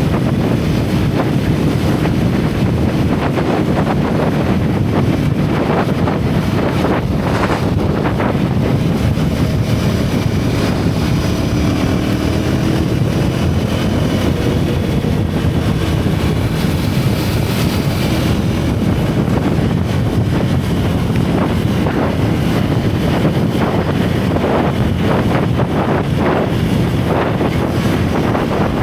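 Motorcycle engine and exhaust running at riding speed, its pitch shifting with the throttle around the middle, under heavy wind buffeting on the microphone.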